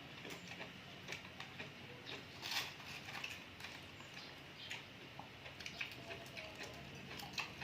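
Faint, irregular wet clicks and smacks of someone chewing sea grapes, with a slightly louder cluster about two and a half seconds in.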